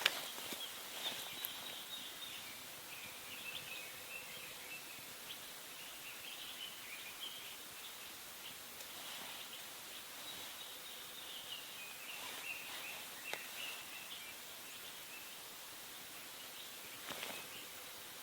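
Small birds chirping over a steady outdoor hiss, with a few faint clicks scattered through.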